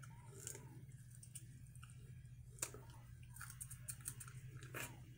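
Close-up chewing and biting of seafood, with soft wet mouth sounds and scattered small clicks, a few sharper ones, over a steady low hum.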